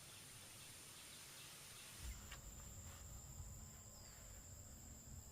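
Faint, steady high-pitched insect drone, typical of crickets or cicadas. About two seconds in it shifts to a slightly lower pitch and a faint low rumble comes in.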